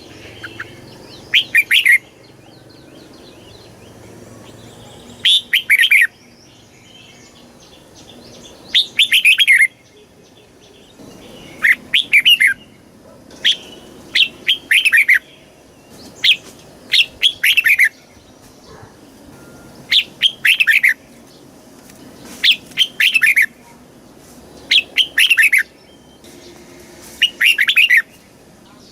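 Red-whiskered bulbul singing short, bright phrases of quick falling notes, about ten phrases a couple of seconds apart.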